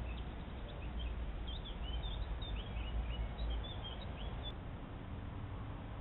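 Small birds chirping in the background: a quick run of short high chirps through the first four seconds or so, over the steady hiss of a trail camera's microphone. A single sharp click comes a little past four seconds.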